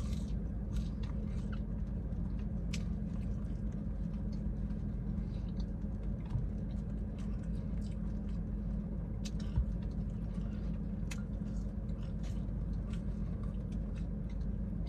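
A person chewing a mouthful of fried food, with many small, irregular mouth clicks over a steady low background hum.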